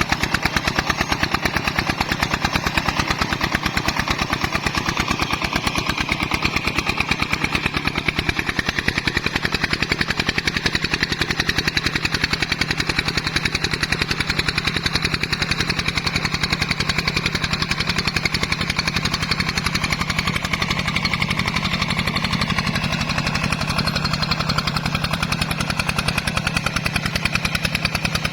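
Single-cylinder diesel engine of a công nông farm truck running steadily, with rapid, even exhaust beats.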